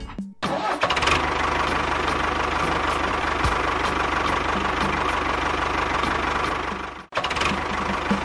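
An engine running steadily with a fast, even firing rhythm. It starts about half a second in, cuts off abruptly about a second before the end, then starts again.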